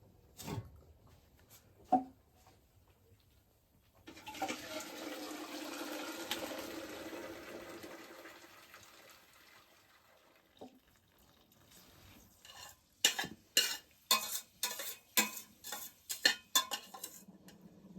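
Cooking pot and metal utensils being handled: two knocks, a rush of splashing liquid that fades over about five seconds, then a quick run of about ten sharp clanks of metal against a pot.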